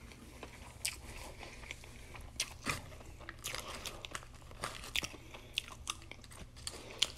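Close-miked chewing of fried chicken sandwich, with soft crunches and wet mouth clicks coming irregularly. Later a fork digs into loaded fries in a paper-lined basket.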